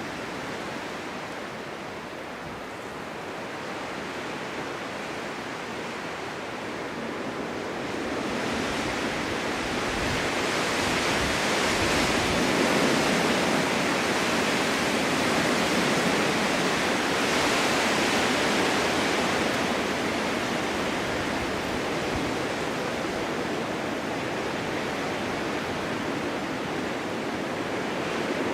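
Snowstorm wind blowing steadily, swelling into stronger gusts about a third of the way in and easing off slightly toward the end.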